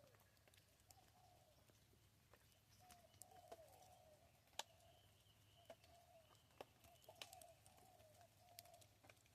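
Faint, soft bird cooing: short low warbling phrases repeated over and over at about the same pitch, with scattered sharp clicks among them.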